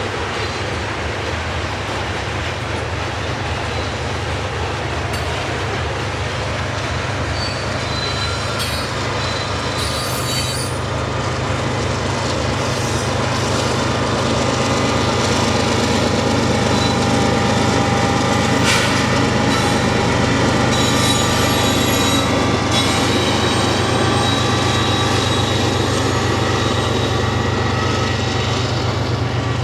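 Freight train rolling past, its steel wheels squealing against the rail in several thin high tones over the steady rumble, getting louder about halfway through.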